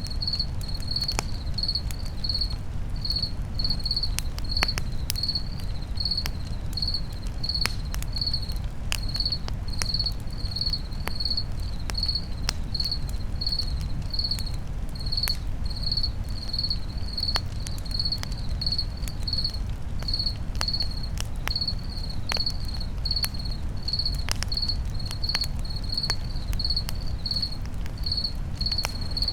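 A cricket chirping steadily, about two chirps a second, over a crackling campfire: sharp pops and crackles now and then above a steady low rumble of the fire.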